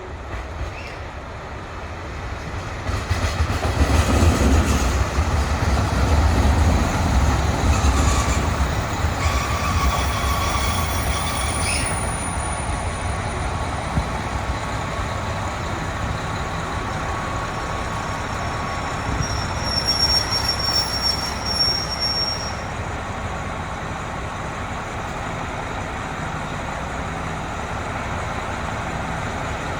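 Diesel railcar train moving through a station, a heavy low engine and wheel rumble that swells a few seconds in and eases after about twelve seconds. Thin squealing tones sound over it, with a high squeal around twenty seconds in.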